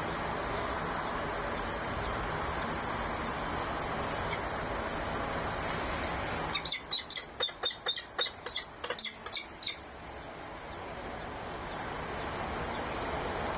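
A falcon calling a rapid series of about a dozen sharp, high notes, about four a second, for some three seconds around the middle, over a steady rushing background hiss.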